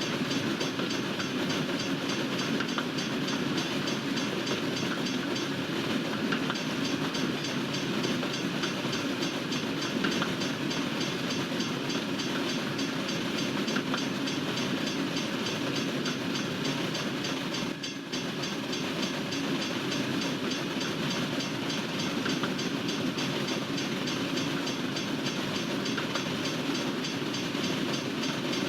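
Freight train cars rolling steadily past, a continuous rumble of wheels on rail, with a brief slight drop in level about eighteen seconds in.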